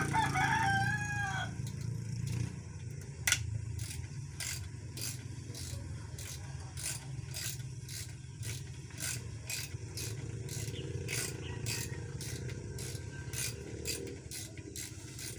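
Hand tools working metal engine parts during a teardown: a long run of short scraping or ratcheting strokes, about two to three a second.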